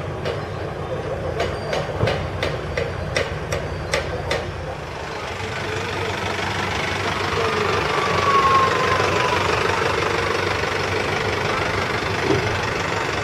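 An engine running, with sharp regular ticks about three times a second for the first four seconds or so, then a broad rush of noise that swells to its loudest a little past the middle and eases off.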